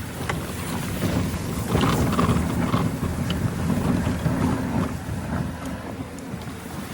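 Wind buffeting the microphone in a steady low rumble, with a few faint clicks and knocks.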